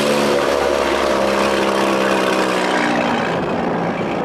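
Two-stroke Evinrude 25 outboard, built up to 35 hp with a bigger intake, running hard with the boat under way near its top speed of about 27 mph. Its pitch eases slightly lower, and after about three seconds the engine fades under wind and water noise.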